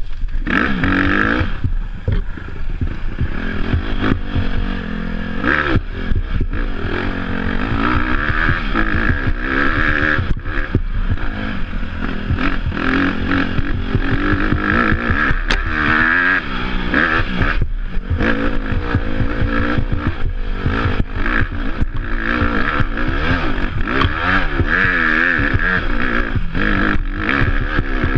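Off-road dirt bike engine revving up and down again and again, with the bike clattering and rattling over rough ground.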